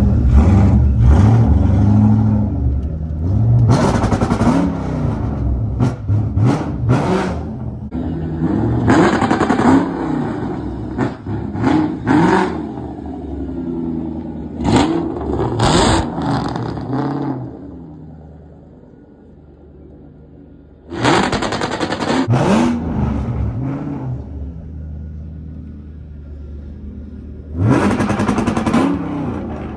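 Car engines revving hard again and again, each rev rising and falling in pitch, with quieter running between the revs. There is a lull about two-thirds of the way through, then two more loud revs.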